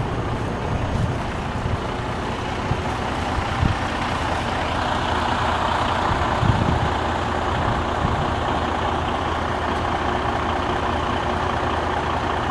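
Heavy vehicle engine running steadily, growing louder in the middle range about five seconds in, with a few dull knocks.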